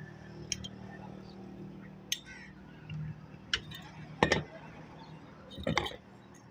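A handful of separate sharp metallic clinks and knocks, the loudest about four seconds in, over a faint steady hum.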